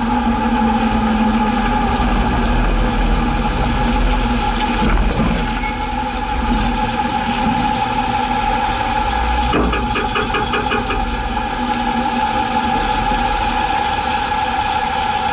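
1961 Chevrolet Biscayne's engine idling steadily. About ten seconds in there is a sharp knock, followed by a second of rapid clicking.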